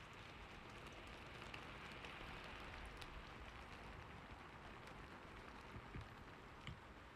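Soft, steady rain falling, an even hiss with a few sharper ticks scattered through it.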